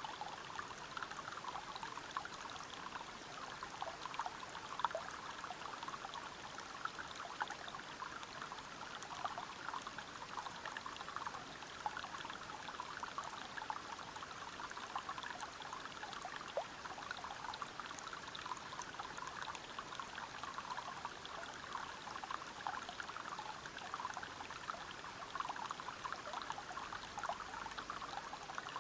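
Waterfall water pouring and splashing over rocks into a river: a steady, even splashing with countless small droplet splashes.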